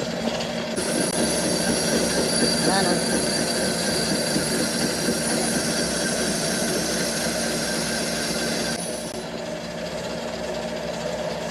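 Metalworking machinery in a gear factory running steadily, with a hum made of several steady tones. A high whine starts about a second in and cuts off about nine seconds in.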